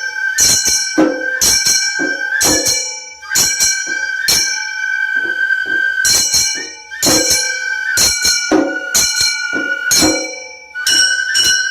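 Gion festival hayashi: small hand-struck kane gongs clanging and ringing in a repeating rhythm over a held, high-pitched transverse flute melody. The strikes come in groups with a brief lull twice.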